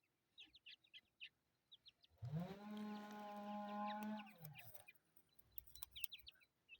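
Chakor partridge chicks peeping in many short, high cheeps. About two seconds in, a louder, steady, low call with a held pitch sounds for about two and a half seconds.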